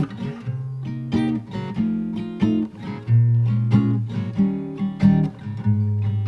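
Acoustic guitar playing a strummed and picked chord pattern as the instrumental intro to a song.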